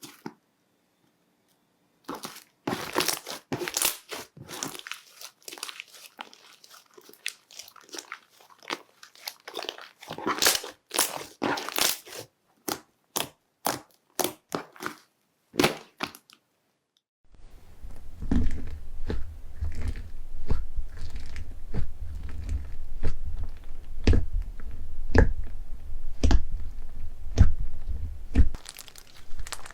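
Slime being pressed and squished by hand, giving dense crunchy crackles and pops. About halfway through it cuts off briefly, then a second batch starts with spaced pops over a low rumble.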